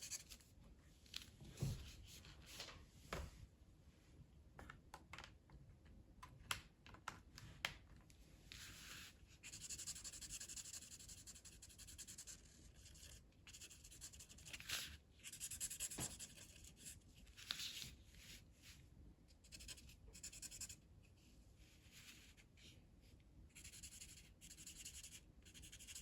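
Faint scratchy strokes of a colouring tool on paper while an area is coloured in, in short irregular runs with pauses between them.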